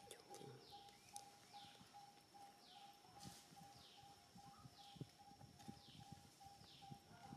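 Faint bird calls: a short falling high note repeated about every three-quarters of a second, over a steady, rapidly pulsing lower note, with a few soft low thumps.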